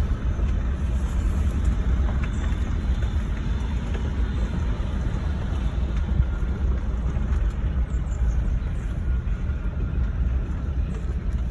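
Steady low rumble of a vehicle being driven, engine and road noise heard from inside the vehicle.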